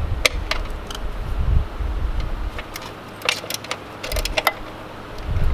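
Wind buffeting the microphone, with scattered metallic clicks of a wrench on motorcycle fender bolts, a few of them bunched together past the middle.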